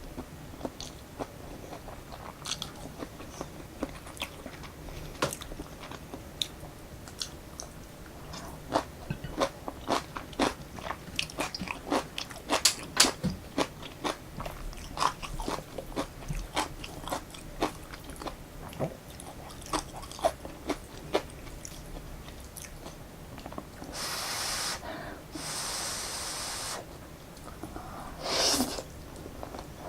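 Close-miked chewing of truffle-oil Jjapaghetti noodles, with many small wet mouth clicks. About three-quarters of the way through come two longer slurps of noodles, and a shorter one near the end.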